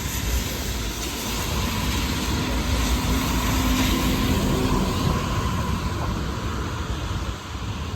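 Road traffic on a rain-soaked city street: a steady hiss of tyres on wet pavement with an engine hum that swells between about two and five seconds in.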